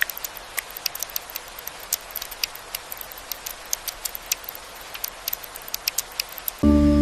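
Rain falling as a steady hiss, with many irregular sharp drop ticks. Near the end a loud, low held musical tone comes in over it.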